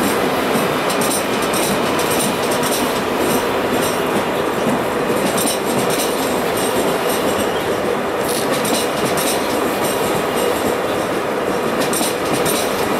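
A train running along the track with a steady rolling noise, its wheels clicking again and again over the rail joints.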